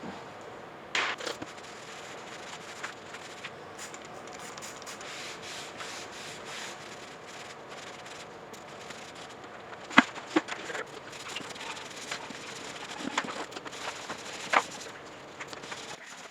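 Steady scrubbing and rubbing on a plastic computer case as it is cleaned by hand, with a few sharp knocks from handling about a second in, around ten seconds in and near the end.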